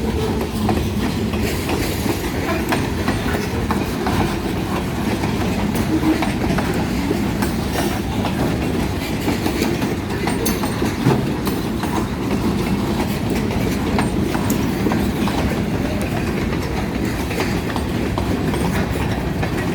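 Freight train rolling past close by: a steady rumble of the cars with wheels clicking over the rail joints.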